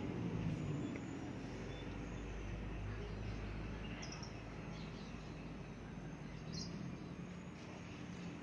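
Faint outdoor background: a low steady hum with a few short, high chirps, one about four seconds in and another about six and a half seconds in.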